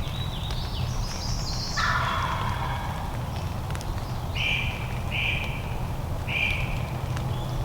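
A wild turkey gobbles about two seconds in, a quick falling rattle, with high stepped falling bird notes just before it and three short calls near the end.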